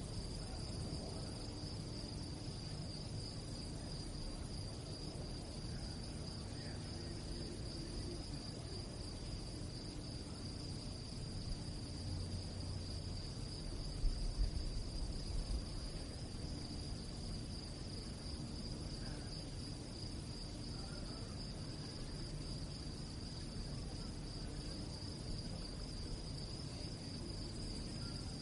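Crickets chirping continuously in a steady, high-pitched, pulsing trill, over a low background rumble that swells briefly about halfway through.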